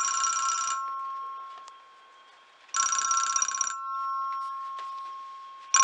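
Black rotary telephone (model 601-A2, 1963) ringing loudly with its electromechanical bells in bursts of about a second, the bell tone dying away between them. One burst at the start, another about three seconds in, and a third starting at the very end.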